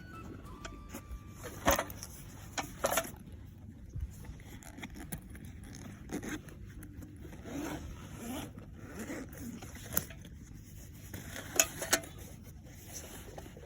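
Parts of a PocketDD mini rocket stove being handled and fitted together: scattered scraping and rubbing, with a few sharp clicks.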